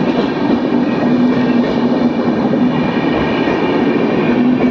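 Train passing: a steady, loud noise of the train running on the rails, with a low steady hum under it.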